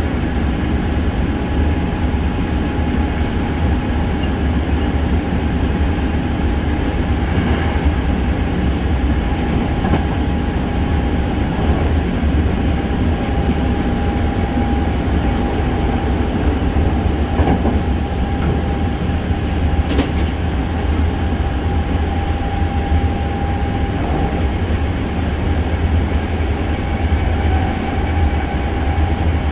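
Hankyu 6300-series electric train heard from inside the passenger car while running at speed. There is a steady low rumble of wheels on rail, a constant whine under it, and two sharp clicks past the middle.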